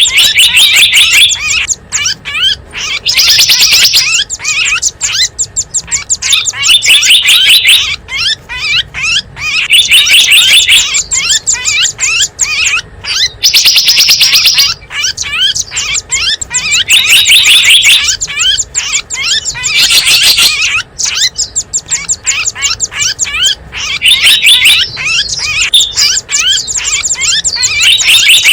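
Loud, rapid chirping and trilling of small wild birds, recorded as a bird-lure call. Dense trilled phrases return every two seconds or so between quicker chirps.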